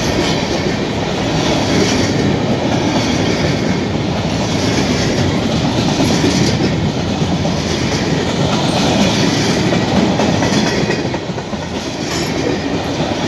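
Freight cars of a passing CN freight train rolling by close at trackside: a loud, steady rumble of steel wheels on the rails that eases slightly near the end.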